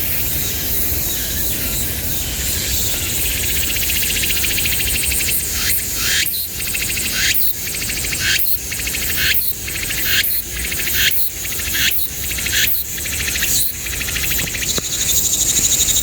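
Loud insect chorus buzzing. From about a third of the way in, the call swells and fades in a regular rhythm of about one and a half pulses a second, then settles into a steady buzz near the end.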